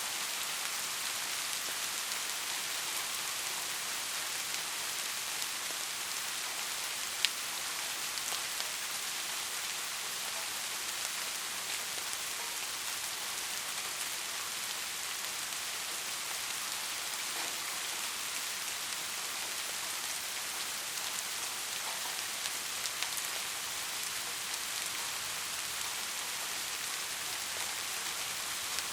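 Steady rain falling, an even hiss of many drops with scattered individual drop ticks; one sharper tick stands out about seven seconds in.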